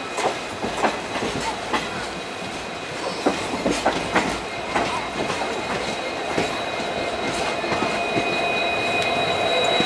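Irregular clickety-clack of a slow-moving passenger coach's wheels over rail joints and points. From about two-thirds in, the steady drone and whine of an oncoming WDP4B diesel locomotive rises as it draws near on the adjacent track.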